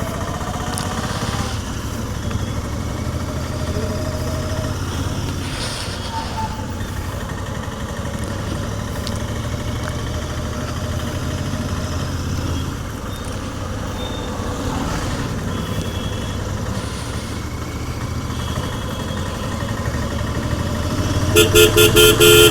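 Royal Enfield Continental GT 650's 648 cc parallel-twin engine running steadily on its stock exhaust while riding. Near the end a vehicle horn sounds in a rapid run of short beeps.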